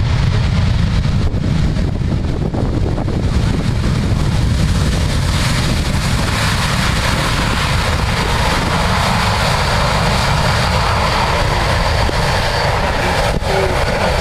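Boeing 787 landing: a steady, loud jet rumble with a hiss above it that swells about five seconds in.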